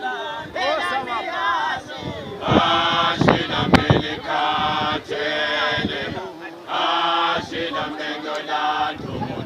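A group of men singing together in phrases about a second long, with short breaks between them.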